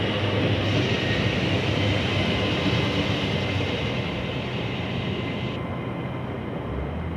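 Hitachi Class 800 train running slowly through the platform: a steady hum with a faint high whine over a hiss. The hiss drops away about five and a half seconds in and the sound eases off slightly.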